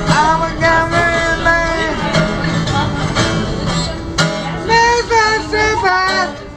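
Blues guitar playing, with a man's voice singing long, bending notes over it, held for about two seconds at the start and again in a run of shorter notes near the end.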